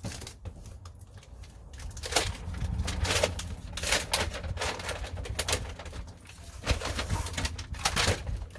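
Crinkling and rustling as foil-backed sound deadener sheets are handled and pressed down on the truck's floor pan, in many short irregular bursts, over a steady low hum.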